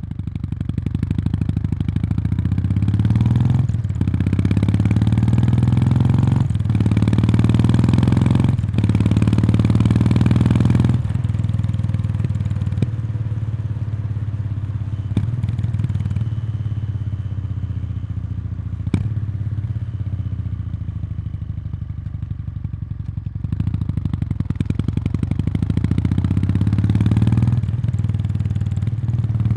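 Kawasaki Meguro K3's 773 cc air-cooled parallel twin through its stock muffler, heard close to the exhaust outlet while riding. It pulls up through the gears, its pitch rising three times with brief dips at each shift. It then runs lower and quieter off the throttle for about twelve seconds, and accelerates again near the end.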